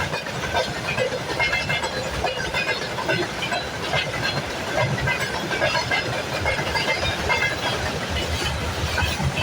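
Wagons of a mixed freight train rolling steadily past on the track: a continuous rumble of wheels on rail with rattling and clatter, and no break in the train.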